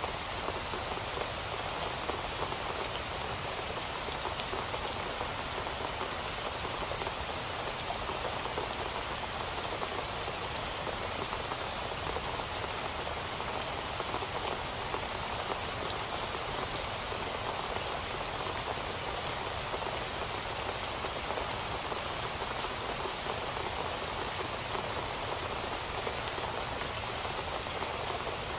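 Steady rain falling on a surface, an even hiss of many drops with faint individual drop ticks and no thunder.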